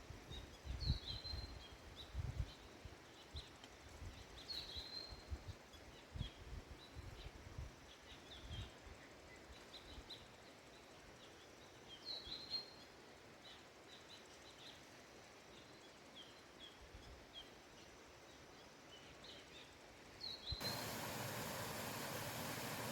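Small birds chirping and calling repeatedly, faint, with soft low thumps through the first half. About twenty seconds in, a steady rushing noise starts abruptly.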